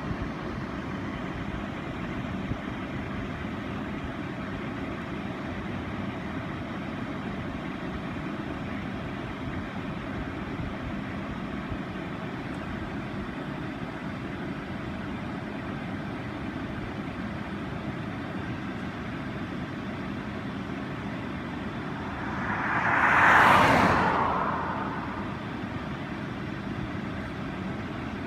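Steady outdoor rushing noise. About three-quarters of the way through, a vehicle passes by, swelling up and fading away.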